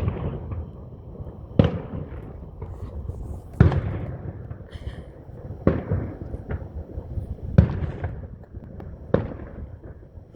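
Aerial fireworks shells bursting in a series of sharp booms, about one every two seconds, with smaller bangs in between and a rolling rumble after each.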